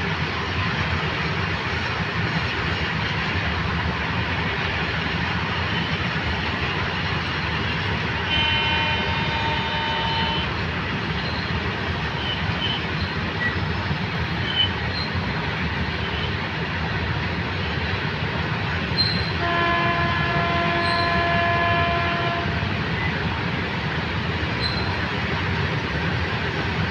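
Train hauled by an electric locomotive running past at speed, a steady loud rush and rumble. Its horn sounds twice, about two seconds each time, about eight seconds in and again lower-pitched about twenty seconds in.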